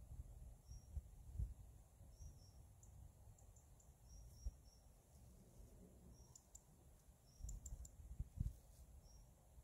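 Quiet outdoor air with a small bird chirping, short high calls repeating every second or so. A few soft low thumps stand out about a second and a half in, midway and near the end.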